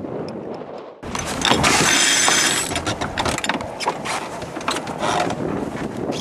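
Sailboat sheet winch ratcheting as it is cranked: quick, uneven runs of pawl clicks with a brief high ringing whir. It follows a second of wind on the microphone, which cuts off about a second in.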